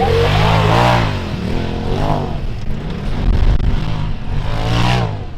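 Polaris RZR side-by-side engine revving hard, rising and dropping back in pitch three times as the throttle is opened and closed.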